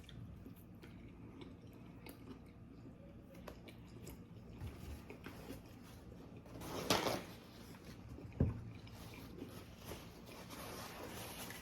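Faint chewing and small mouth and utensil clicks from a person eating, with a short rush of noise about seven seconds in and a single sharp knock just after.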